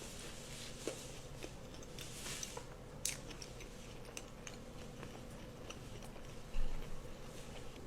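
Close-miked eating: biting and chewing with small wet clicks and a few crunches, one sharper crack about three seconds in. A dull low thump about two-thirds of the way through is the loudest moment.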